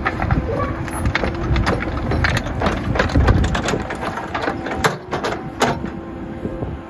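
Backhoe engine running with a low rumble while many sharp clanks and knocks, bucket and rock scraping, come through as it digs earth.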